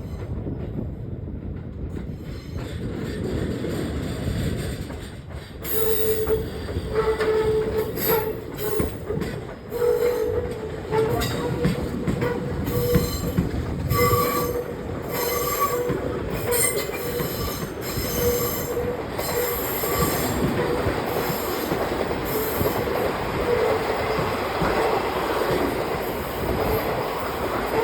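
E257-series electric train running slowly into a stabling siding, its wheels squealing on the track with a high squeal at one pitch that comes and goes from about six seconds in, over the train's running noise.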